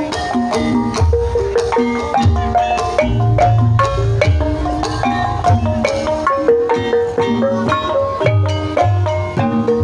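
Live Banyumasan gamelan music for ebeg: quick runs of mallet-struck keyed notes over repeated low drum strokes.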